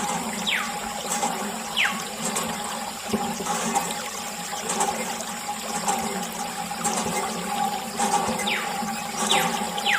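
Water gushing and splashing steadily. A few short, quickly falling chirps come near the start and again near the end.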